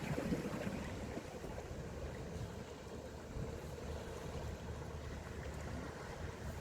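Steady wind and sea-wave noise on the shore, with a faint continuous hum underneath.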